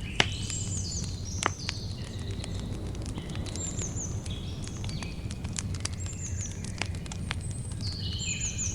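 Campfire crackling and popping over the low rumble of the burning wood, with a loud pop just after the start and another about a second and a half in. Birds call now and then with short, high, falling chirps.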